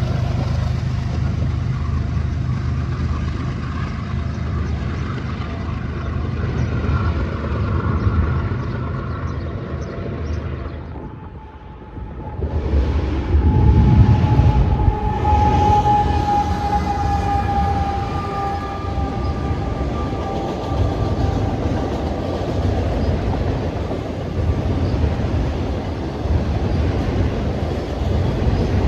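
Train rolling past with a steady low rumble of railcars on the track. The sound drops away briefly about eleven seconds in, then returns with a faint thin high tone over the rumble.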